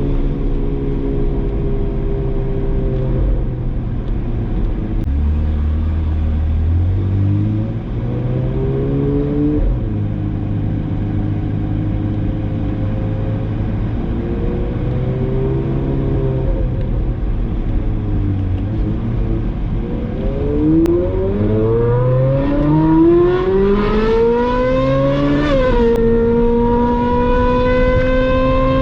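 Ferrari 458 Spider's V8 with a Brilliant aftermarket exhaust, pulling at low revs in town with small rises and falls in engine speed. Near the end it accelerates, the pitch climbing, dropping suddenly at an upshift, then climbing again.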